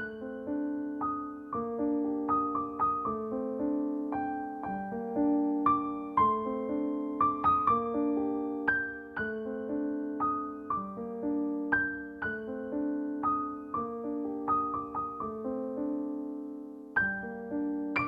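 Background music: a gentle electric piano or keyboard melody over repeating chords.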